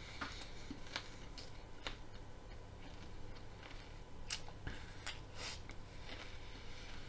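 Raw broccoli crunching as it is bitten and chewed close to the microphone: irregular crisp cracks, about one a second, between softer chewing.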